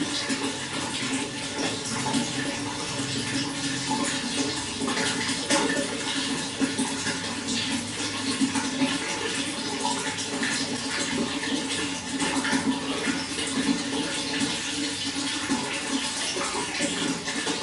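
Running water flowing and splashing steadily, with a dense patter of small splashes.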